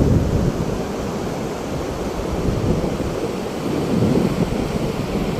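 Sea waves breaking on a beach, with wind buffeting the microphone: a steady, rumbling wash of surf noise.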